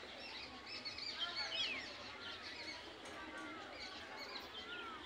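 Small birds chirping and twittering, with many quick rising and falling notes, busiest about a second in.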